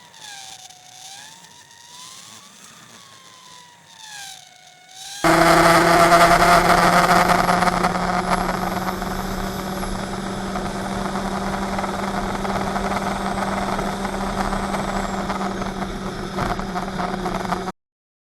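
A faint warbling tone rises and falls, then race car engine noise cuts in loud and sudden about five seconds in. It runs steadily at speed with a slow rise in pitch and stops abruptly near the end.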